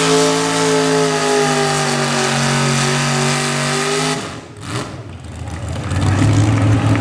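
Super stock pulling truck's engine held at high revs under full load, its pitch sagging slowly as it pulls the sled, then the throttle is cut abruptly about four seconds in. After a short lull a lower, steady engine idle comes in near the end.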